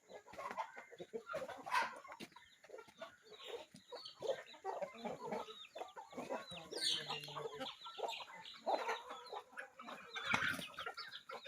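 A flock of chickens clucking continuously in short, irregular calls, with a few higher calls standing out along the way.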